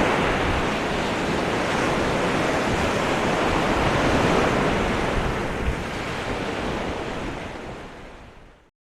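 Steady rush of wind and open-water noise buffeting the microphone, fading out near the end.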